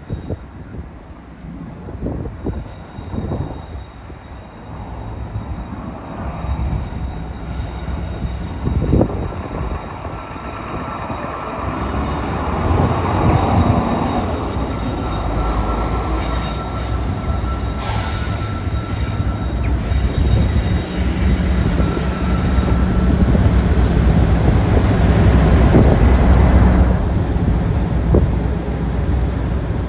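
A train approaching and passing, growing steadily louder with a deep engine drone, a thin steady high-pitched tone over it for a stretch, and a few knocks early on.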